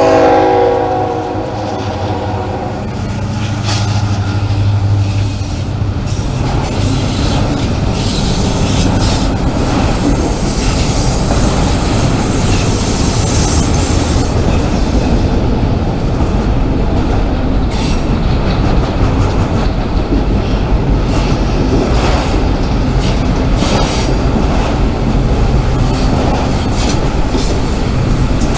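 Diesel freight train passing close by: a horn sounds and dies away in the first couple of seconds, then a steady rumble of locomotives and rolling cars with irregular clicking and clattering of wheels over rail joints.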